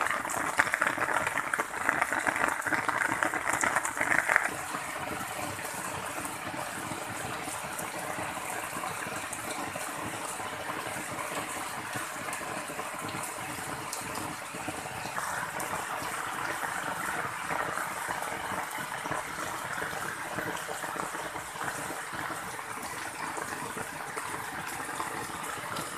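Heavy rain falling steadily, with runoff water rushing along the roadside gutter that is loudest for about the first four seconds. It then drops suddenly, leaving an even hiss of rain.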